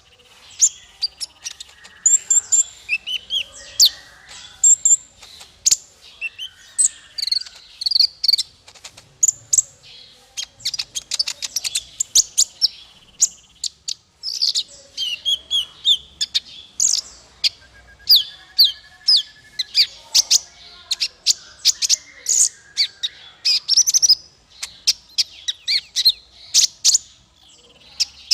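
Small songbird singing a fast, unbroken string of short, sharp, high chirps and twitters, with a brief trill about two-thirds of the way through.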